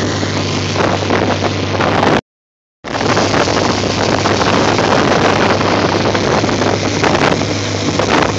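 Motorboat running at speed: a steady low engine hum under heavy wind noise on the microphone and rushing water. The sound drops out completely for about half a second a little over two seconds in.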